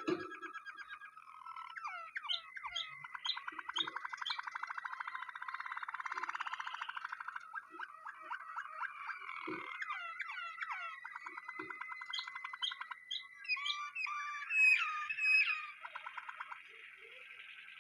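Waterslager canary singing: long, fast trills and rolling, bubbling tours with quick gliding chirps between them, loudest near the end.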